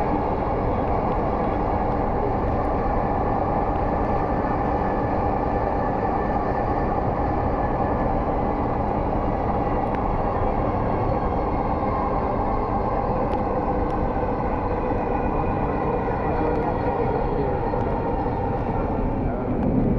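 Dhaka Metro Rail electric train running, heard from inside the carriage: a steady rumble with several steady tones held over it.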